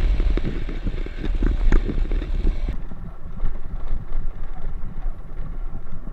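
Riding on a Yamaha FZ motorcycle: wind buffets the microphone over the bike's low rumble. A hiss above it cuts off abruptly about halfway through.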